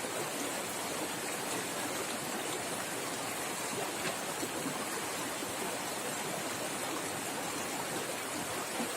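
Swift river water rushing and splashing, a steady, unbroken sound.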